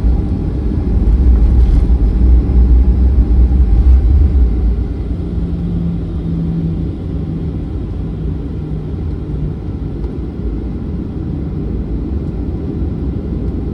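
Boeing 737-900's CFM56 jet engines running with a heavy, low rumble. The rumble eases about four and a half seconds in to a steadier hum with a faint held tone.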